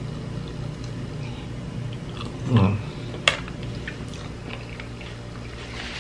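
A person biting into and chewing a soft, caramelized-sugar-coated fried snack close to the microphone, with small wet mouth clicks. A brief voice sound comes about two and a half seconds in, followed by a single sharp click.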